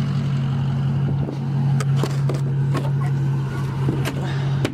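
Plow truck's engine idling steadily, with a scattering of short knocks and clicks over it.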